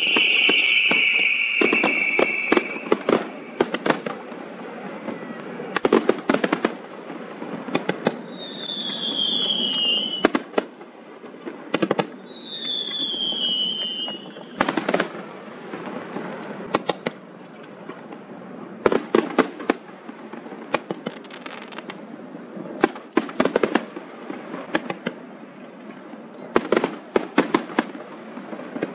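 Fireworks display: repeated sharp bangs and crackling bursts over a steady hiss. There is a shrill whistle for the first few seconds and two falling whistles about nine and thirteen seconds in.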